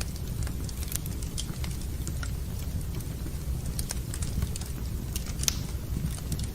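Wood fire crackling in a fireplace: irregular sharp pops and snaps over a steady low rumble, with one louder pop about five and a half seconds in.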